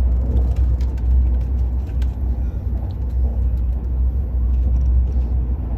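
Steady low rumble inside the carriage of the Al Boraq high-speed train running at speed, with a few faint ticks and rattles over it.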